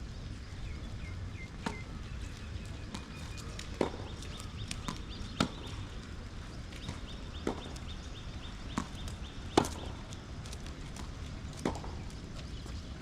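Tennis ball struck back and forth with rackets in a rally: sharp pops about every two seconds, with a few softer bounces between, over a steady low background noise.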